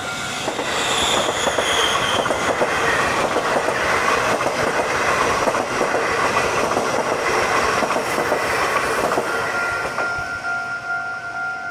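Taiwan Railways EMU800 electric multiple unit passing through a level crossing: a dense, rapid clatter of wheels over the rails, with a high whine falling in pitch in the first couple of seconds. The crossing's electronic warning bell, a steady two-tone ring, is drowned out as the train passes and comes back clearly near the end as the last car clears.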